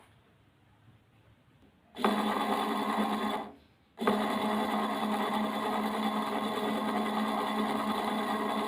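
A small battery-powered electric motor in a homemade cardboard toy tractor engine running with a steady buzz. It starts about two seconds in, cuts out briefly about a second and a half later, then starts again and keeps running.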